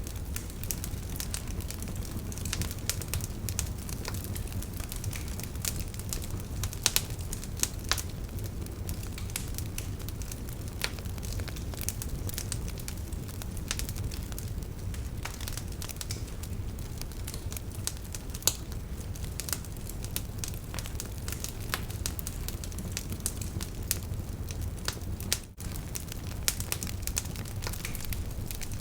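Wood campfire crackling, with frequent sharp pops and snaps scattered irregularly over a steady low rumble. The sound drops out briefly near the end.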